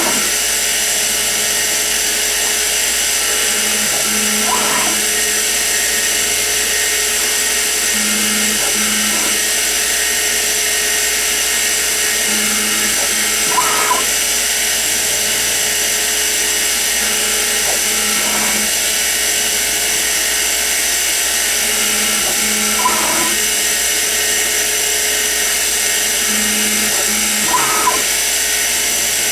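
Sieg X2 mini-mill running steadily with a constant whine, with a short sound about every four to five seconds, some of them with a low hum between.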